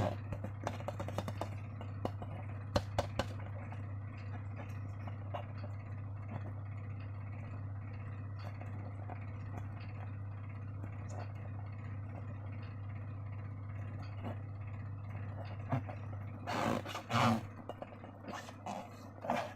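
Scraping, small clicks and rustling from hands handling slime-making materials. It goes on throughout, with louder bursts about three seconds in and again near the end, over a steady low hum.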